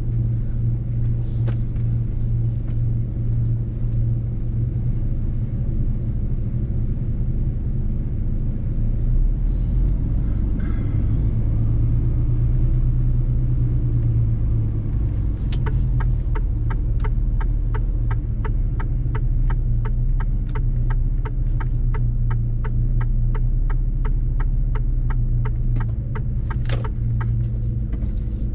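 Mercedes-Benz truck driving, a steady low engine and road drone with a faint steady high whine. Past the middle, a regular ticking of about two clicks a second runs for some ten seconds.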